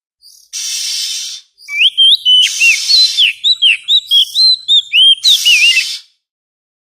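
Oriental magpie-robin (kacer) singing: a fast run of loud, clear whistled notes that swoop up and down, broken by three harsh rasping notes. The song stops about a second before the end.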